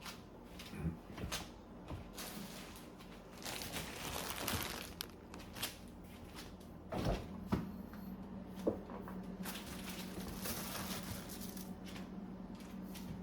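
Household handling sounds: rustling, with several sharp knocks and clicks. A low steady hum sets in about halfway through and carries on.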